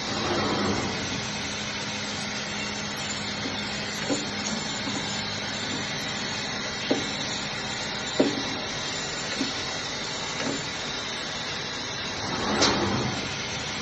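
An HY-420A automatic meat band saw running with a steady motor hum, with a few short knocks scattered through it and a brief louder rush about twelve and a half seconds in.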